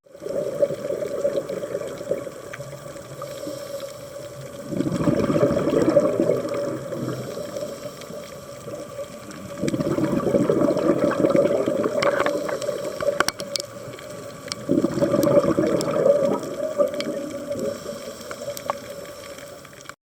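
Scuba diver breathing through a regulator, heard underwater: bursts of exhaled bubbles come about every five seconds and last two to three seconds, with quieter inhales between. A few sharp clicks come near the middle.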